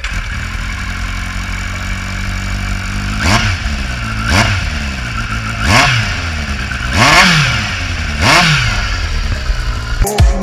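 Kawasaki Z800e inline-four engine idling through a LeoVince aftermarket exhaust, blipped five times in the second half, each rev rising quickly and dropping back to idle.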